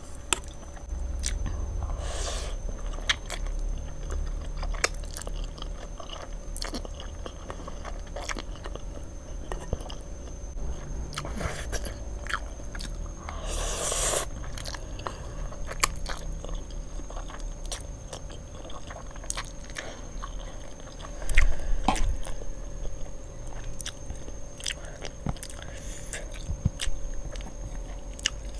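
Close-miked chewing and biting of Samyang carbonara noodles and their toppings, with many small wet mouth clicks and smacks. A louder slurp of noodles comes about fourteen seconds in.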